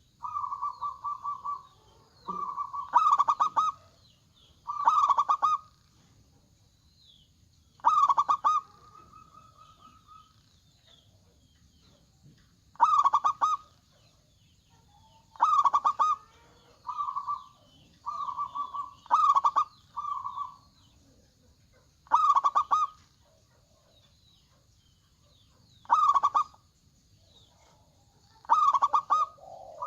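Zebra doves (perkutut) cooing: short, rapid stuttering coo phrases repeated every two to three seconds, some louder and fuller than others.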